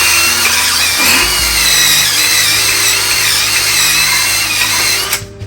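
Power drill running under load while it cleans the end of a copper water pipe, its whine wavering in pitch; it stops about five seconds in.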